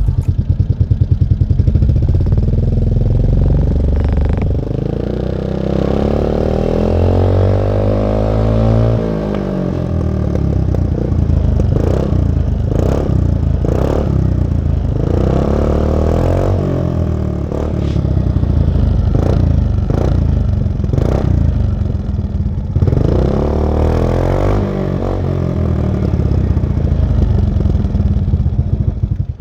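Aprilia SR scooter's single-cylinder four-stroke engine breathing through a Blaze aftermarket silencer, revved hard: one long rev up and back down, then a quick run of throttle blips, then another rev near the end.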